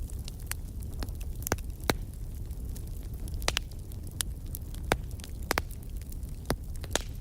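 Wood fire in a fireplace crackling: about seven sharp pops and snaps scattered through a few seconds, over a steady low rumble.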